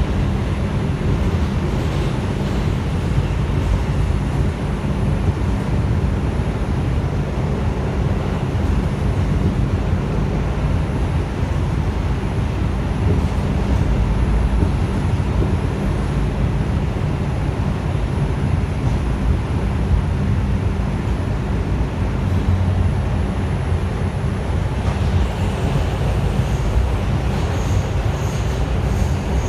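Interior noise of an R142 subway car running between stations: a steady, loud rumble of the wheels on the rails and the running gear beneath the car. A few faint high-pitched squeaks come in near the end.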